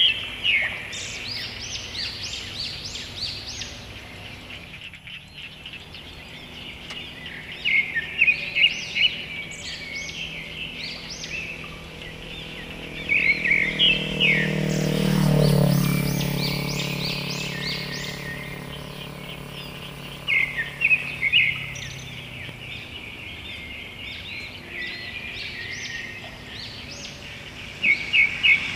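Birds chirping in short bursts of quick high calls every several seconds over a steady outdoor background. About halfway through, an engine passes by, its hum swelling and dropping in pitch as it goes past, then fading.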